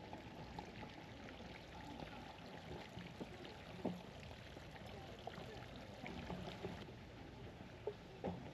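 Running water trickling and splashing steadily, with scattered small clicks and splashes.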